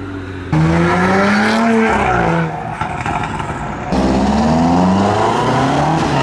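Car engine revving and accelerating hard, its pitch climbing and dropping several times. The sound jumps suddenly louder about half a second in and again near four seconds.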